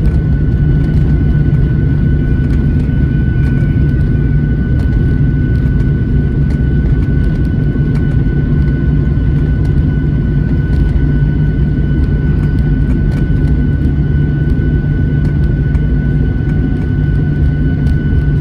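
Airliner cabin noise aboard a Boeing jet on the ground after landing: a steady, loud low rumble with a thin steady whine over it, and faint scattered clicks from a rattling cabin wall panel.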